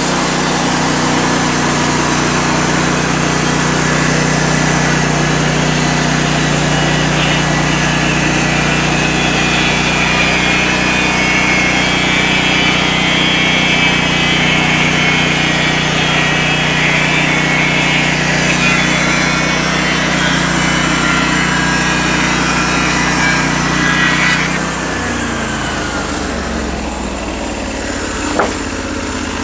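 Norwood LM29 portable bandsaw mill's 16 hp gas engine running hard while the band blade saws through a log. About 25 seconds in the engine drops back to idle, and there is one short knock near the end.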